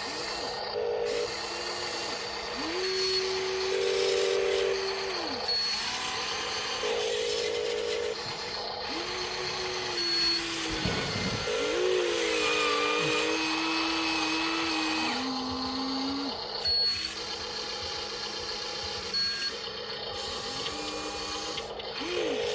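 Electric motors of a Huina RC excavator whining in short runs, starting and stopping every second or two, the pitch rising and dropping as each motor speeds up and slows.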